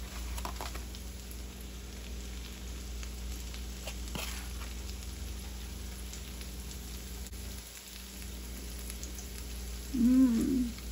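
Green beans and diced Vienna sausages sizzling steadily as they fry in sesame oil in a frying pan. Near the end, a person's short hummed "mm" stands out as the loudest sound.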